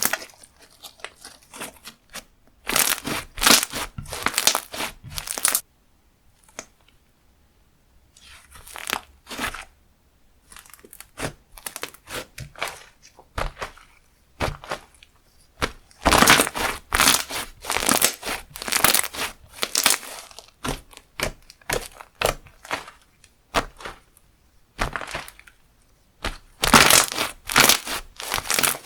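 Slime being squished, stretched and poked by hand, giving bursts of dense crackling and popping with pauses in between.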